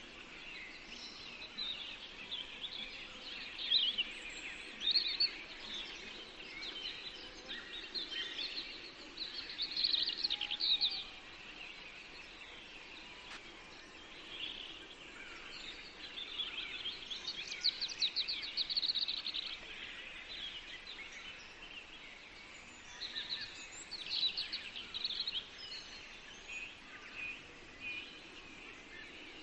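Several small songbirds singing and chirping in a forest, overlapping short trills and twitters over a faint steady background hush.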